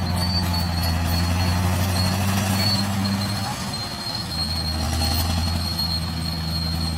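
Crawler bulldozer's diesel engine running steadily, with a thin, steady high-pitched squeal from its steel tracks. The engine note drops slightly about three and a half seconds in.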